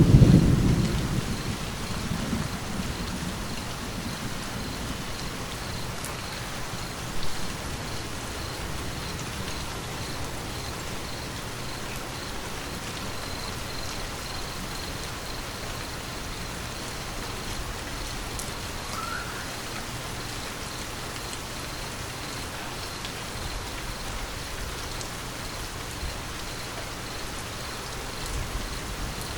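Steady rain falling, with a low rumble of thunder dying away over the first couple of seconds and another rumble starting to build near the end.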